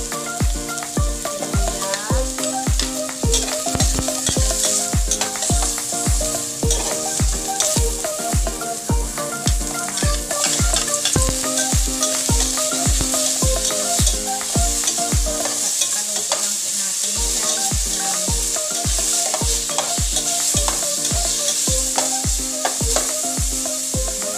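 Onions, tomatoes and garlic sizzling as they sauté in a pot, stirred with a spatula, under background music with a steady beat of about two beats a second that drops out briefly about two-thirds of the way through.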